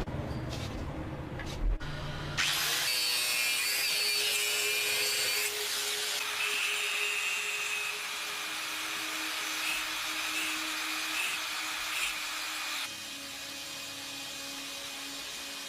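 A small motorized tool switches on a couple of seconds in, runs with a steady high hiss and a faint whine for about ten seconds, then cuts off. A few light knocks come before it starts.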